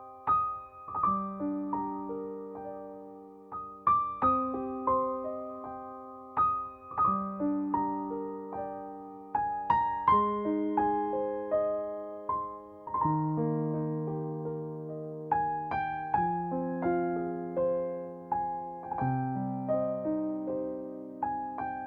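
Solo piano music, gentle and slow, with struck notes ringing out over sustained chords.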